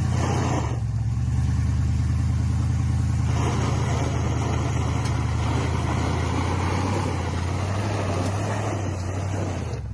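Old 1977 Ford pickup truck's V8 engine running steadily. A rougher, louder layer of noise joins about a third of the way in and fades near the end.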